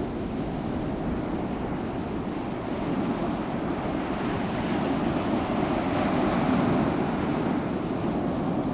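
Sea waves: a continuous rush of surf that swells a little about three seconds in and again near the end.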